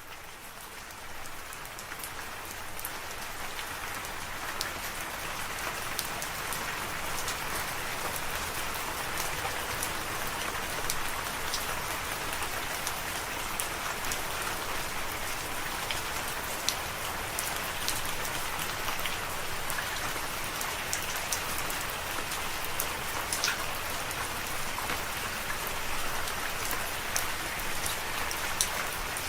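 Steady rain falling, with the crisp ticks of individual drops scattered through the even hiss. It swells up over the first few seconds, then holds steady.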